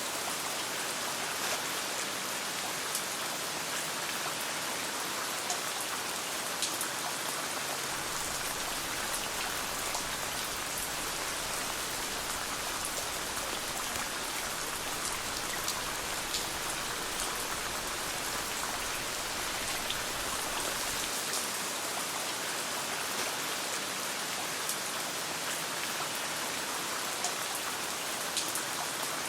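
Steady rain falling and pattering on a surface, as heard from inside a tent, with scattered sharp ticks of individual drops or crackles.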